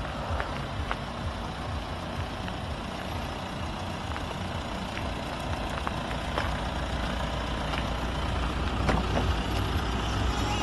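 Audi A4's 2.0 TDI four-cylinder turbodiesel engine running with a steady low rumble, growing gradually louder toward the end.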